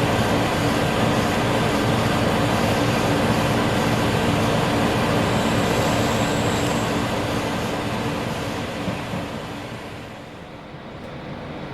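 Diesel railcar running: a steady engine hum over rail noise that fades away over a couple of seconds near the end.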